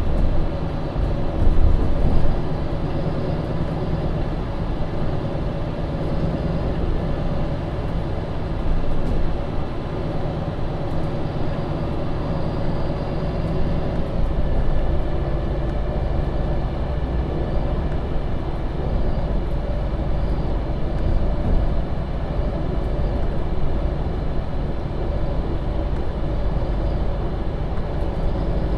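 2015 MAN Lion's City Euro 6 city bus running under way, heard from inside the cabin: a steady engine and drivetrain drone with road noise. Its tone shifts to a new pitch about halfway through.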